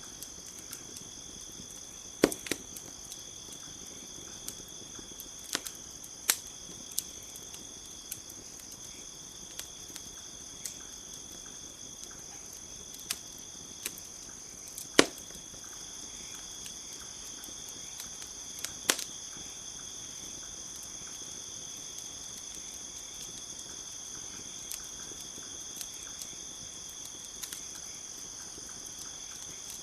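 Campfire crackling with scattered sharp pops, the loudest about two seconds in and halfway through, over a steady high chirring of crickets.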